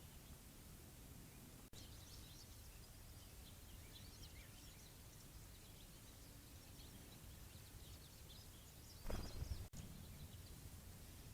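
Faint, scattered chirps of small songbirds over a quiet outdoor hiss, with one brief, louder noisy burst about nine seconds in.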